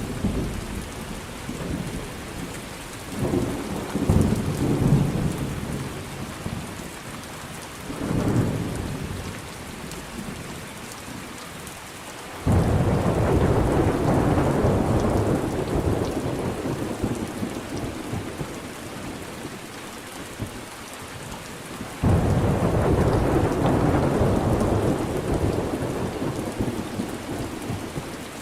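Steady rain falling during a thunderstorm, with low rolls of thunder. Two loud thunderclaps break in suddenly, one about halfway through and one near the end, each rumbling on and fading slowly.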